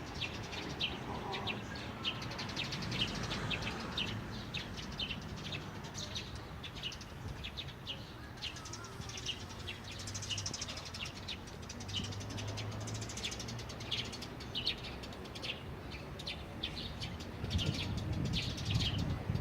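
Many small birds chirping, short high chirps in quick succession, over a low steady rumble that grows louder near the end.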